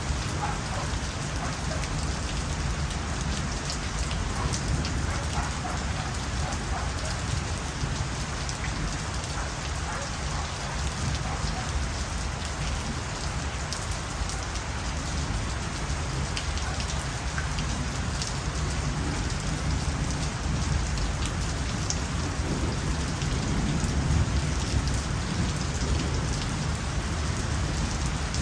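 Steady rain falling, with individual drops ticking and a low rumble underneath, unchanging throughout.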